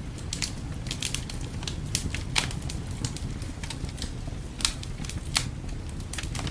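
Wood fire crackling in a fireplace, with irregular sharp pops, the loudest about two and a half seconds in and near five seconds, over a steady low rumble.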